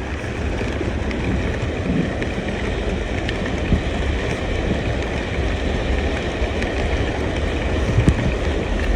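Steady low rumble of a vehicle driving through heavy rain and standing floodwater, with rain noise over it and a few small knocks.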